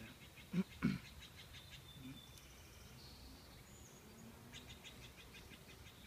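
Birds calling: high whistled notes and rapid ticking trills, with two short, loud calls about half a second in.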